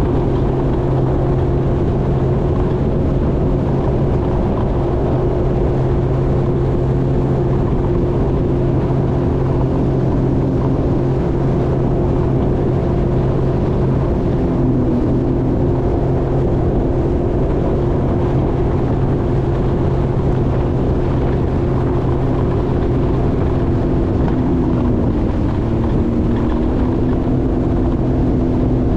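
Jet ski engine running steadily under way, with water and wind noise; its pitch shifts slightly about halfway through and again near the end.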